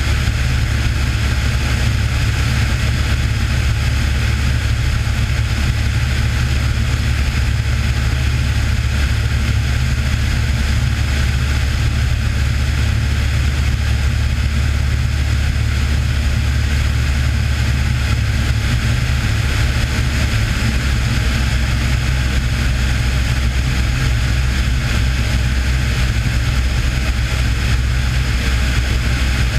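Cessna 182 piston engine and propeller running with a steady drone in flight.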